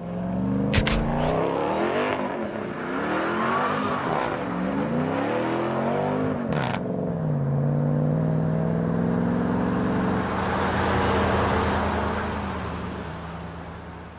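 A car engine revving, its pitch rising and falling in sweeps, with a sharp click about a second in and another about halfway through, then settling to a steadier note that fades near the end.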